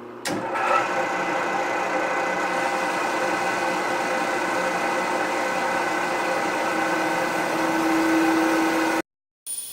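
Milling machine starting up and running for a cut, a steady mechanical whine made of several steady tones; near the end one lower tone grows louder. It cuts off suddenly about nine seconds in.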